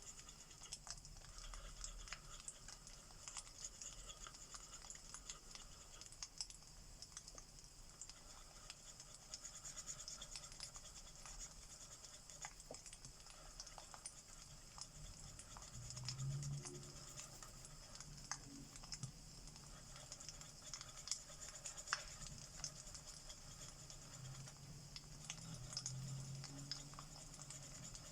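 Faint crackling of a wood fire: scattered pops and snaps over a steady hiss, with a low rumble swelling about halfway through and again near the end.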